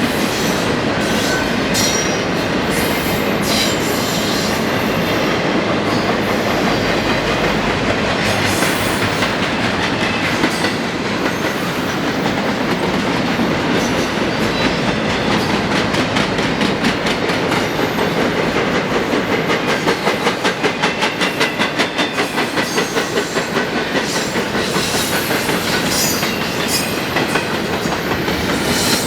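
Freight train cars rolling past with a steady rumble and rattle of wheels on rail. About two-thirds of the way through, the wheels click over rail joints in a quick, even rhythm.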